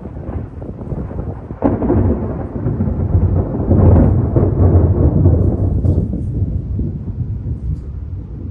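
Thunder: a sharp crack about a second and a half in, then a long low rumble that swells and slowly fades.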